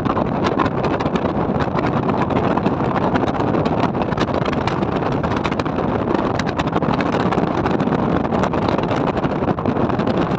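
Steady rushing noise of a moving vehicle, with wind buffeting the microphone and many small crackles.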